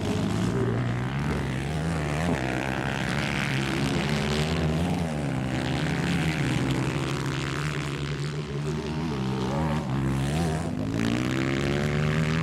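160cc four-stroke motocross motorcycle engines racing, their pitch rising and falling over and over as the riders rev and shift.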